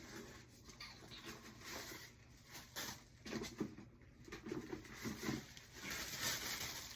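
Tissue paper rustling softly as it is pulled out and handled for wrapping.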